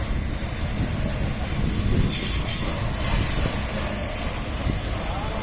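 Loaded freight train of wood-pulp wagons rolling past with a steady low rumble. From about two seconds in, a high hiss comes and goes over it.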